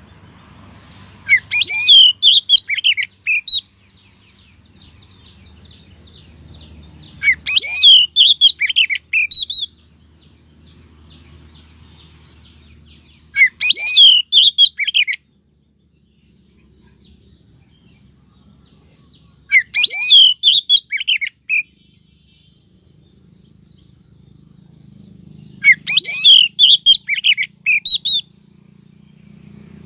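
Female oriental magpie-robin calls used as a lure for males: five short bursts of quick, high, twisting notes, about six seconds apart.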